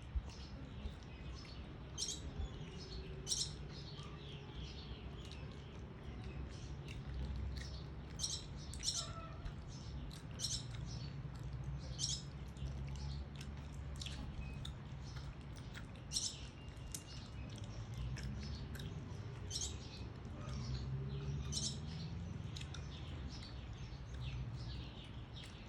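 Birds chirping: many short, sharp high-pitched chirps repeated irregularly throughout, over a steady low rumble.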